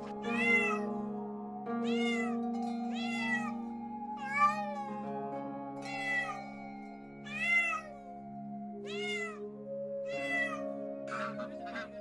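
Domestic cat meowing repeatedly, about eight separate meows each rising and falling in pitch, over soft background music. Near the end a few short, harsher calls of a different kind come in.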